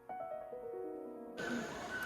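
Background piano music, a run of single notes stepping downward. About a second and a half in, a steady hiss of background ambience joins the music.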